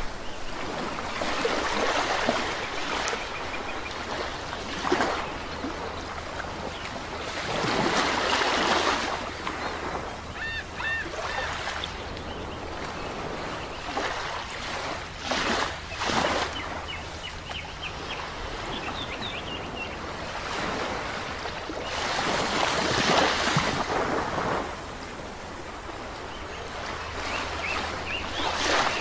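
Sea waves washing onto a shore, surging and fading in slow swells every several seconds. Short, high bird chirps sound now and then over the surf.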